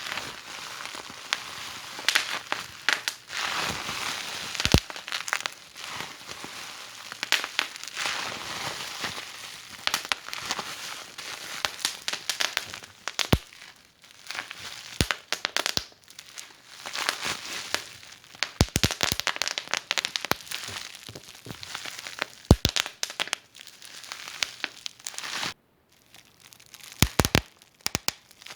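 Fire in a fireplace crackling: a steady hiss full of rapid small pops, with a few louder sharp snaps scattered through. The crackling grows sparser in the second half.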